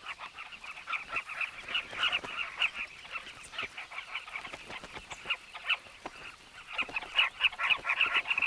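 A colony of carmine bee-eaters calling: many short, overlapping calls in a continuous chatter, growing denser and louder near the end.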